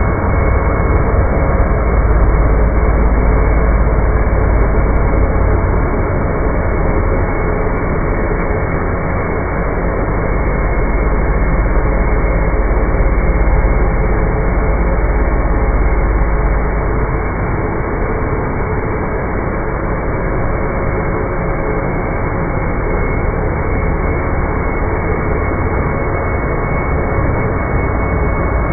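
Dirt Devil Ultra Vision Turbo upright vacuum cleaner running steadily, a motor hum with a few held tones over a low rumble that eases a little after about the middle.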